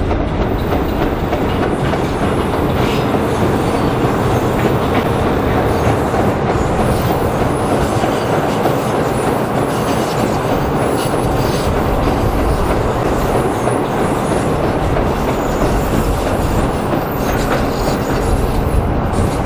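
A 2 ft gauge sugar cane train rolling by, its wagon wheels clattering steadily on the rails, with occasional faint high squeals from the wheels.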